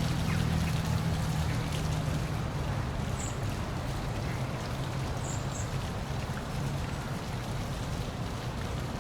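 Steady rushing of a park waterfall, with a low hum underneath and a few faint high chirps a few seconds in.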